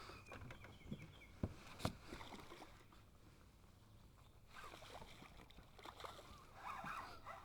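Faint knocks and taps of a kayak and fishing gear on the water, with two sharp clicks about a second and a half in.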